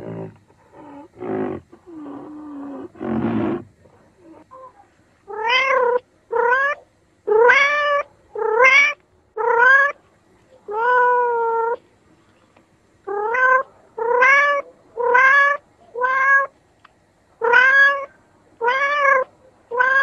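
A domestic cat meowing over and over, about one meow a second, each call rising and then falling in pitch, with one longer meow near the middle. Before the meows, in the first few seconds, come a few short, rough, noisy sounds.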